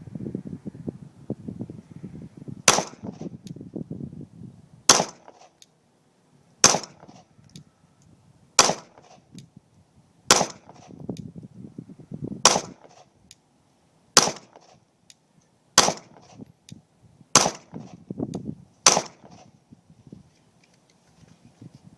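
Glock 26 9mm subcompact pistol fired in slow, deliberate single shots: ten shots, about one every one and a half to two seconds, each with a short ringing echo.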